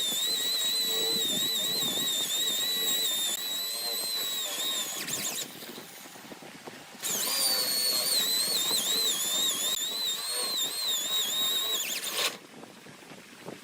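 A handheld power tool runs with a high whine whose pitch wavers as it works the wood. It runs twice, about five seconds each, with a short pause between.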